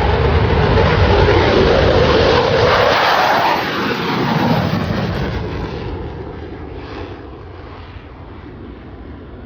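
Aircraft flying past, its engine roar loud at first and then fading away over the last few seconds as it moves off.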